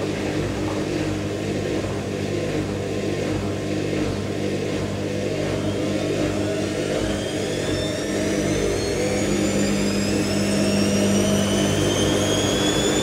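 IKEA RENLIG IWM60 washing machine's motor and drum speeding up into the final spin, a steady hum with a whine that climbs steadily in pitch from about six seconds in. The owner notes some roughness from its motor bearings.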